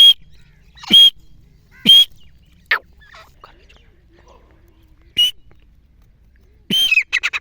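Grey francolin calling: loud, shrill notes repeated about once a second, with a few more spaced out, then a quick run of short notes near the end.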